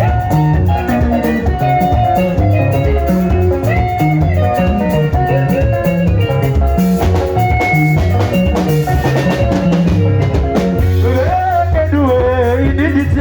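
Sungura band music: interlocking electric guitar lines over a bass guitar and a drum kit keeping a steady beat. A voice starts singing near the end.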